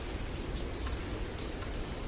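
Steady rain falling, with a few individual drops hitting close by.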